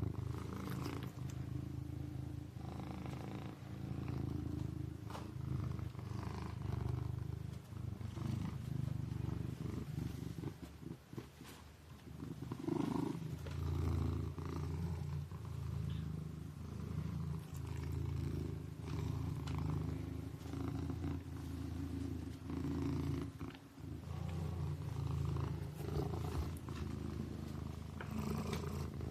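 Kitten purring steadily, a low rumble that swells and eases with each breath and dips briefly about halfway through.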